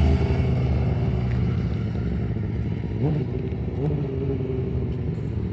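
Large-displacement racing motorcycle engines running at a warm-up idle, with two quick throttle blips about three seconds in and again a second later.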